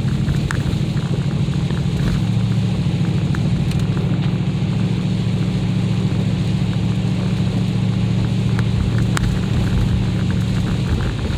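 Mercedes ML SUV driving on an icy road, heard from inside the cabin: a steady low engine and road drone, with scattered small ticks and crackles.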